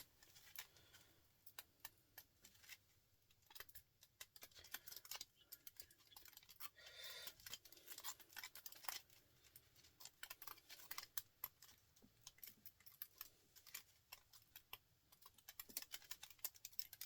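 Faint, irregular clicks and scratches of copper winding wire being picked and pulled off a small electric motor by hand, with a brief scrape about seven seconds in.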